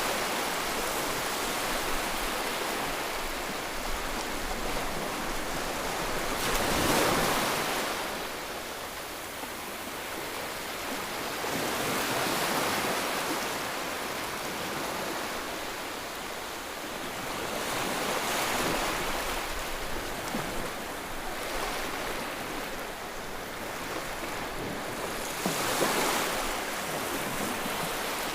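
Rushing white noise that swells and ebbs like breaking surf, about every six seconds. It is a soothing sound for babies.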